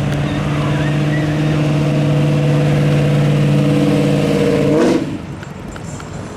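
Car engine held at steady high revs for about five seconds. The pitch rises briefly, then the sound cuts off.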